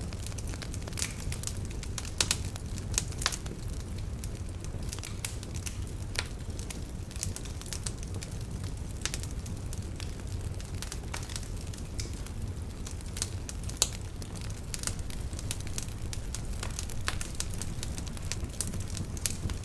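Logs burning in a fireplace: a constant low rumble of flames with dense, irregular crackles and snaps, and a few louder pops about two seconds in and again near the end.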